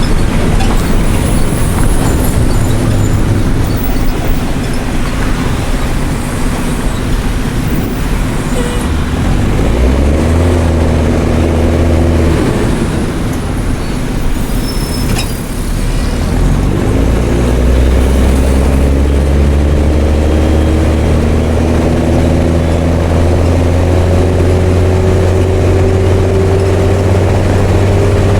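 Mercedes-Benz OM366LA inline-six turbodiesel of a city bus with an open, straight-through exhaust, driving: the revs rise about ten seconds in, fall back, then climb again from about sixteen seconds in into a steady, slowly rising drone.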